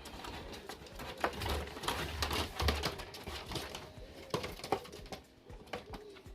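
Irregular light taps, scratches and rustles of quails shuffling about in their box as it is opened, with a few dull knocks.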